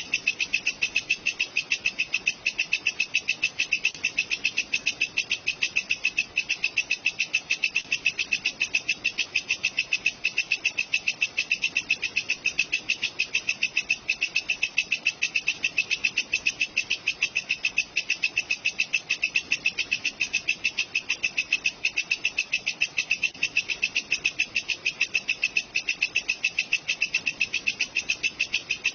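Walang kecek, an Indonesian katydid, calling: a fast, perfectly even train of shrill chirping pulses, repeated without a break.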